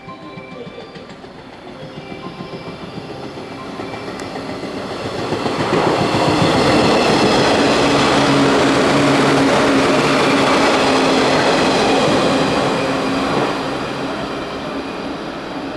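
JR 115 series electric multiple unit passing through a station at speed: wheels clattering over the rail joints, growing louder as it approaches. The sound is loudest for about seven seconds with a steady hum as the cars go by, then fades away.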